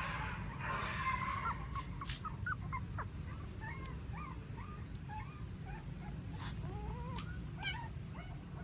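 Young puppies squeaking and whimpering: many short, high squeaks that bend up and down in pitch, coming one after another.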